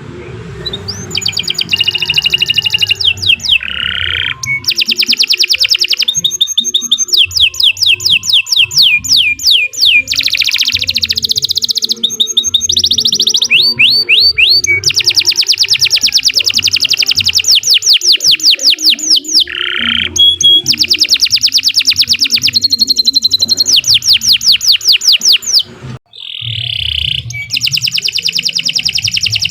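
Domestic canary singing continuously in long, fast trills and rolls: one note repeated rapidly, then switching to the next phrase every few seconds. There is a short break near the end before the song picks up again.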